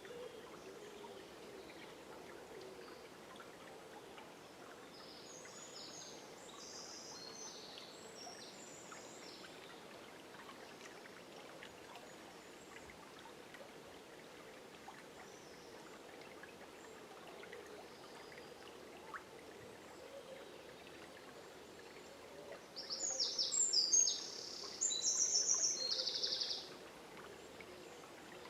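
River water flowing steadily, with songbirds singing over it: faint song about a quarter of the way in, then a bird close by sings two loud, busy phrases near the end.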